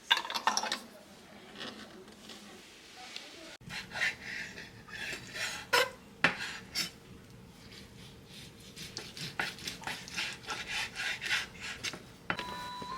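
Kitchen utensils clinking and scraping against dishes and pots in a run of sharp clinks. Light background music comes in near the end.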